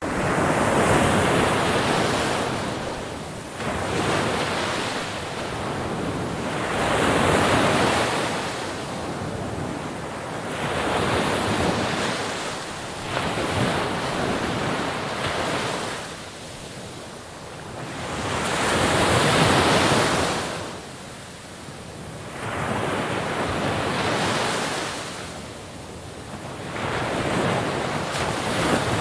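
Ocean waves breaking and washing in surf, the rush swelling and fading in repeated surges every few seconds.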